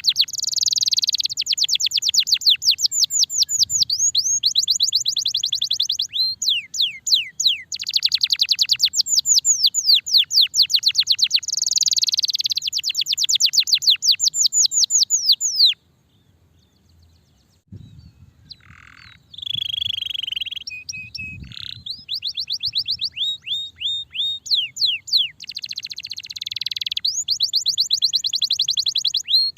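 Starblue canary singing a long song of fast rolling trills, each a rapid run of high sweeping notes. The song breaks off for about two seconds past the middle, resumes with a few softer, varied notes, and then goes back into fast trills.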